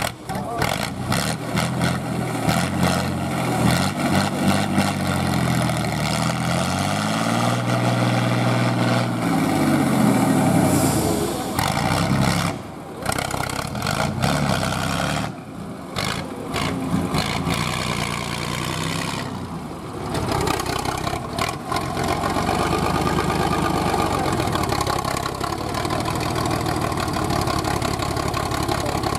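Truck engine revving up and down repeatedly, climbing to its highest pitch about ten seconds in. It drops away briefly a few times, then runs more steadily near the end.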